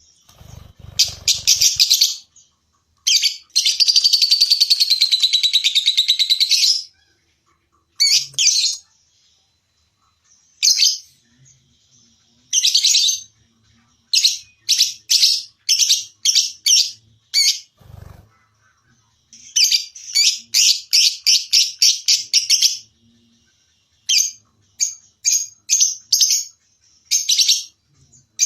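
Lovebird calling: shrill chirps in short bursts, then about three seconds in a long unbroken ngekek trill lasting some three and a half seconds, followed by quick runs of sharp chirps. A brief low thump comes about two thirds of the way through.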